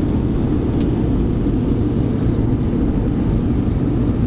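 Airliner cabin noise during landing: a steady low rumble of jet engines and airflow heard from inside the passenger cabin.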